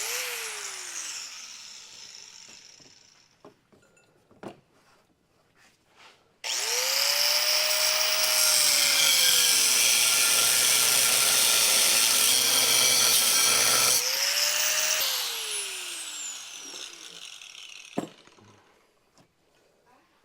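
Electric cutting tool cutting a 45-degree notch in metal stock. It briefly spins and winds down at the start. About six seconds in it runs up and cuts for about eight seconds, its pitch sagging under load, then it is released and winds down. A sharp knock follows near the end.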